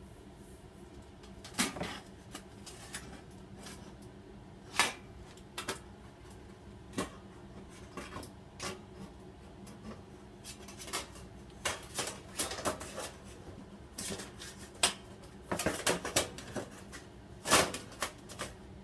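Irregular light clicks and knocks of hard objects handled, a few sharper clinks among them, over a faint steady hum.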